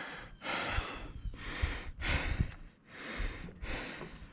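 A person breathing heavily and fast, with loud rasping in-and-out breaths about one every 0.7 s. They are out of breath from the steep climb.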